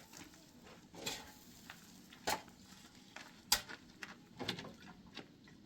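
A few separate clinks and knocks, like hard objects being handled or set down, about five over a few seconds, the loudest about halfway through.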